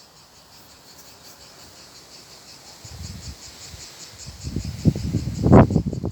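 Insects chirping in an even, rapid pulse, several times a second. From about halfway, a rough low rumbling noise builds up and becomes the loudest sound near the end.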